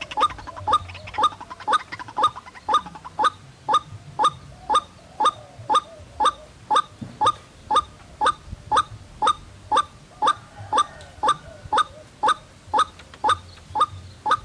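White-breasted waterhen (ruak-ruak) calling: a loud, monotonous train of short, clipped notes at about two a second, with fainter wavering calls behind them in places.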